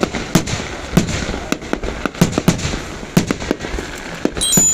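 Fireworks going off in a rapid, irregular run of sharp bangs and pops, several a second. Near the end a high, steady whistling tone sets in.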